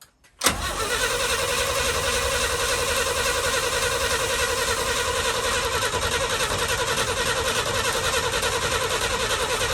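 Starter motor cranking the 1966 International Harvester 1100A's BG 241 inline-six engine, a steady rhythmic churn that starts about half a second in and holds without the engine catching. The starter turns the engine over but it does not fire.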